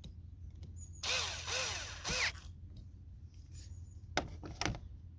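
A small cordless power tool runs in three short bursts, its motor pitch rising and falling each time as it snugs down the 10 mm nuts holding the turbo solenoid valve. Two sharp clicks follow a couple of seconds later.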